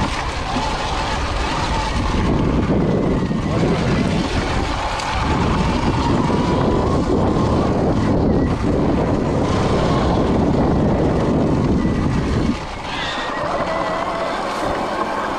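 Sur-Ron electric dirt bike being ridden on a trail: a thin motor whine that wavers with the throttle over dense riding and wind noise. The low rumble drops away suddenly about twelve seconds in.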